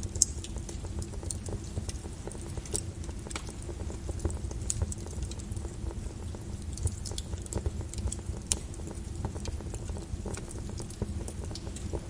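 Lava from a volcanic eruption: a steady low rumble with irregular sharp crackles and pops, one louder pop just after the start.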